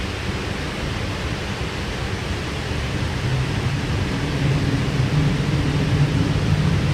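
Running noise inside a Sydney Trains K-set double-deck electric train car in motion: a steady rumble of wheels on the track. About halfway through, a low hum comes in and the noise grows louder.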